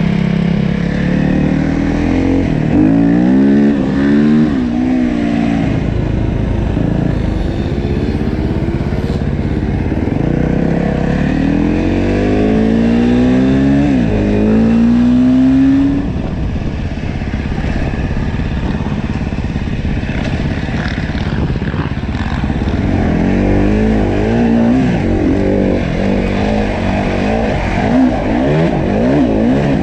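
Dirt bike engine running under way, revving up and shifting. Its pitch climbs and drops back again and again: a long climb to about halfway through, then a sudden drop, and quicker rises and falls near the end. Under it runs a steady rush of wind and trail noise.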